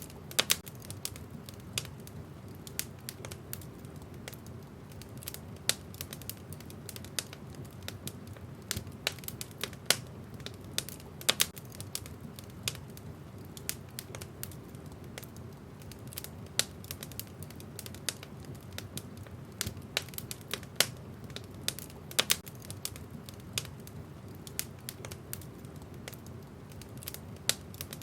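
Wood fire burning in a fireplace: irregular sharp crackles and pops of the burning logs, several a second, over a steady low rumble of the flames.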